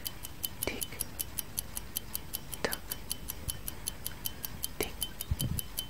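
Clock ticking sound effect, an even fast run of sharp ticks at about five a second, with a soft falling sweep roughly every two seconds.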